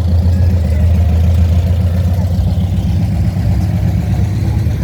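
A car engine idling close by, a loud, steady, low exhaust note with a rapid even pulse.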